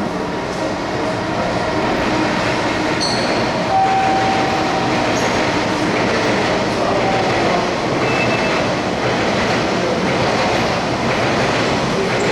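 Freight train running past on the Musashino Line, a steady loud rail rumble of wheels on track, with a brief wheel squeal about four seconds in.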